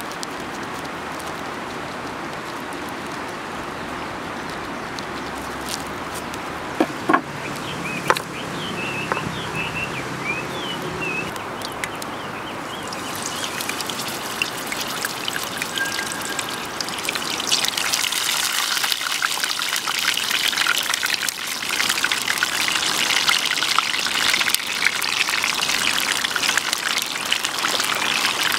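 Beef-stuffed bell pepper rings sizzling in hot oil in a frying pan over a wood fire, a crackling sizzle that starts about halfway through and grows louder a few seconds later as more rings go in. Before it, a steady rushing noise with a couple of sharp knocks.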